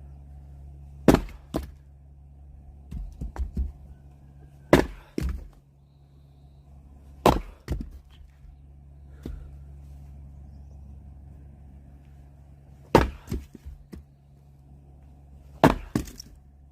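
An axe splitting firewood: five heavy blows a few seconds apart, each followed by a sharp crack or clatter as the wood splits and falls, with a few lighter knocks between, over a steady low hum.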